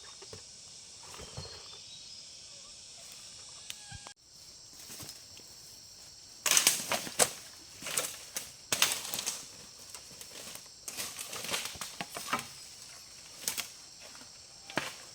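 A steady high insect buzz, then from about six and a half seconds in a run of loud, irregular rustling and crackling bursts.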